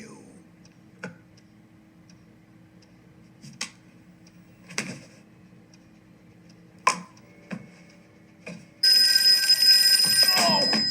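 Scattered single clicks and knocks, then a telephone bell starts ringing loudly about nine seconds in and keeps ringing.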